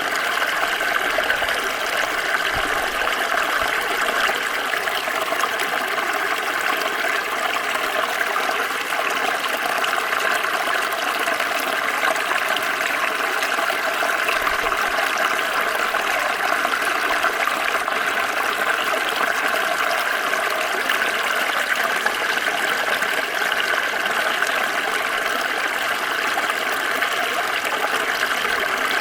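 Small stream flowing over stones, a steady, even rush and trickle of water.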